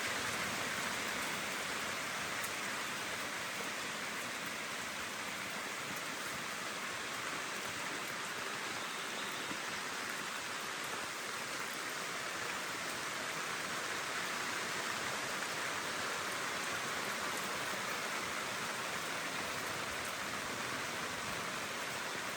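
Steady rain falling, an even hiss with faint drop ticks here and there.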